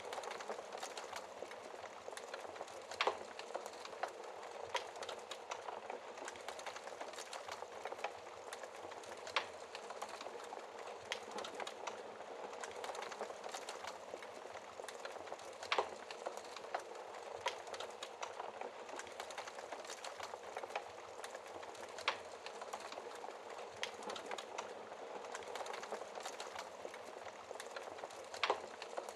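Wood fire crackling in a fireplace: a steady bed of small crackles with occasional louder sharp pops every few seconds.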